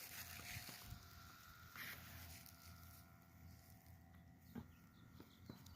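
Near silence: faint outdoor ambience, with a soft rustle about two seconds in and a faint click near the end.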